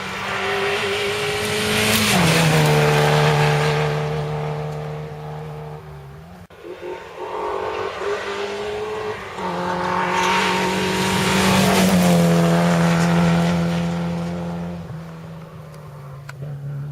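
Historic rally cars going by at speed in two loud passes. Each engine note falls in pitch as the car goes past.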